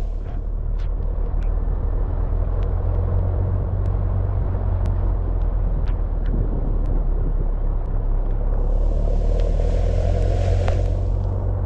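A 4x4 driving on a rough dirt road: a steady low engine and road rumble with scattered small knocks and rattles. A hissing rush swells up for a few seconds near the end.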